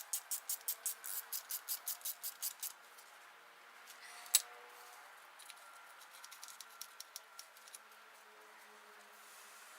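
Ratchet wrench clicking in a quick even run, about six clicks a second, stopping under three seconds in; then one sharp louder click and a few faint ticks.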